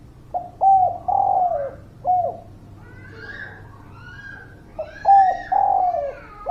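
Spotted dove (derkuku) cooing: two phrases of about four low coos each, the third coo of each phrase drawn out and falling at its end, with a pause of a couple of seconds between the phrases. It is a lively, well-singing bird's call of the kind used as a lure to set other doves cooing.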